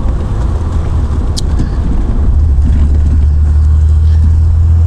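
Triumph Vitesse Mk2's straight-six engine running steadily under way, heard from the open-topped car with wind and road noise. The low engine drone grows a little louder about two seconds in.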